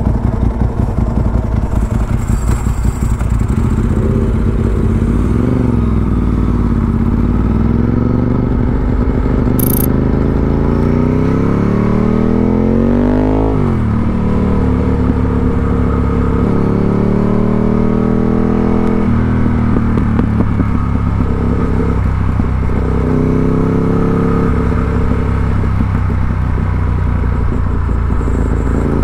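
Ducati 748R's L-twin engine through a Termignoni exhaust, heard from the rider's seat while riding: the engine pulls up steadily in pitch for several seconds, drops sharply about halfway through, then runs on at a steadier pitch with a smaller rise later.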